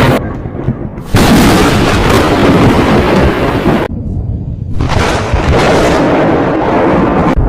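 Thunder from close lightning strikes: a loud crack about a second in that rolls into rumbling, a short drop-out just before the middle, then another loud stretch of rumbling.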